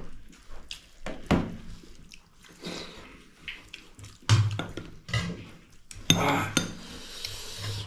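Eating sounds at a meal: dishes and cutlery clinking and knocking in scattered strokes, with chewing between them.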